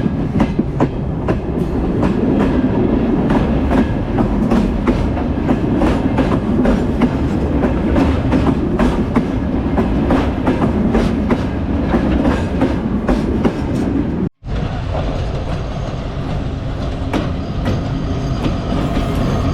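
Train running on the rails, with a heavy rumble and rapid clicking of wheels over rail joints. After a sudden break about 14 seconds in, the clicking thins and a steady hum comes through.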